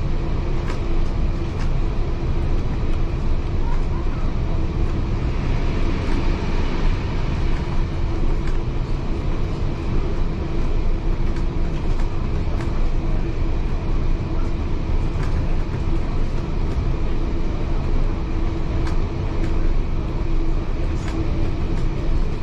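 Heritage railway carriage running along the track, heard from inside: a steady rumble with a constant hum and occasional light clicks.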